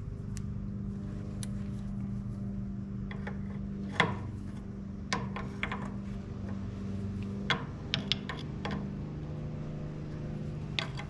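Several sharp metallic clinks and knocks of hand tools and parts being handled, the loudest about four seconds in, over a steady low mechanical hum.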